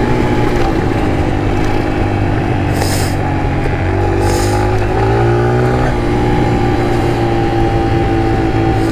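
2021 Kawasaki KLX140 pit bike's single-cylinder four-stroke engine running under way. Its pitch rises about four seconds in as it speeds up, then holds steady, with a steady rush of wind noise.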